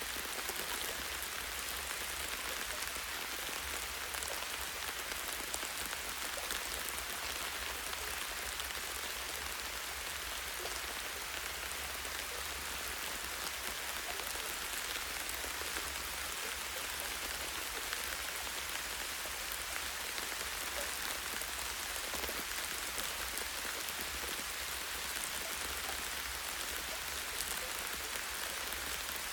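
Light rain falling steadily, a constant patter of drops on leaves and a tree branch with fine scattered drop ticks.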